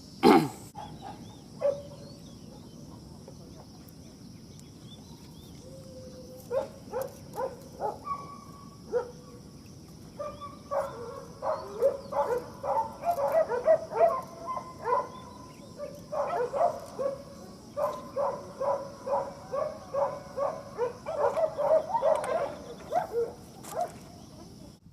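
Dogs barking repeatedly, a few scattered barks at first and then a quick run of several a second, over a steady high hum of insects.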